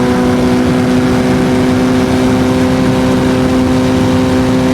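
Suzuki GSX-R1000 inline-four engine running at a steady pitch, holding constant revs with no revving up or down, over an even rush of noise.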